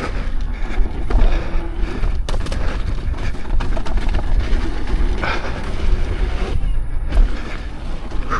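Low wind rumble on the rider's microphone and a tyre running over a dirt trail as an off-road electric unicycle is ridden fast, with scattered knocks and clicks from the bumps.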